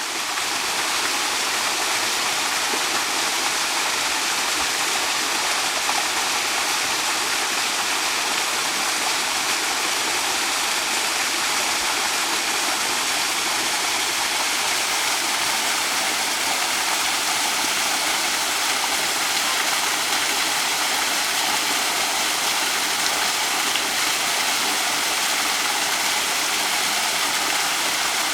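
Running water flowing steadily in an even, unbroken rush.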